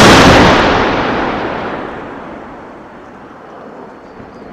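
Main battle tank's cannon firing: one very loud blast, then a long rumble that fades away over about three seconds.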